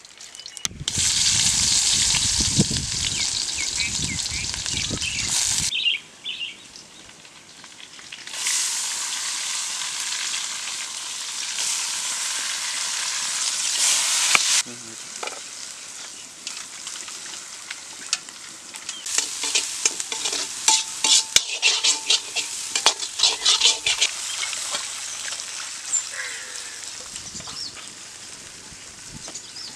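Chopped ingredients sizzling loudly in hot oil in an iron wok, stirred with a metal ladle. The sizzle drops off abruptly twice, then settles to a softer frying with many short clicks of the ladle against the wok.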